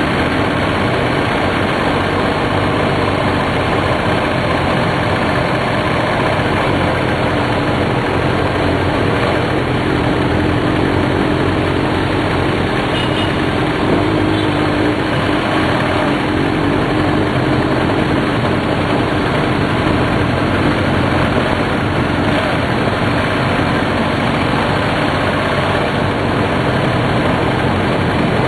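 Motorcycle engine running steadily, with no revving, under a constant dense rush of noise.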